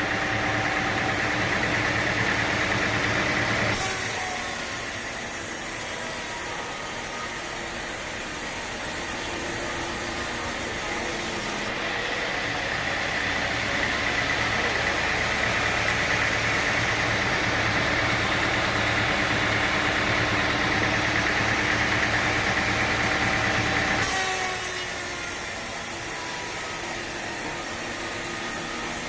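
Sawmill running: an engine drones steadily while the saw cuts through wood. The sound changes abruptly about four seconds in, again about twelve seconds in, and once more near the end, with a higher, hissing cutting sound through the middle stretch.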